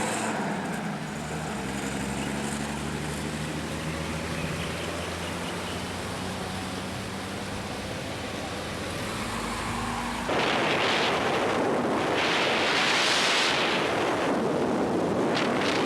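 A vehicle driving: a steady low engine hum under road noise. About ten seconds in, a cut brings a louder, surging rushing noise, like wind on the microphone.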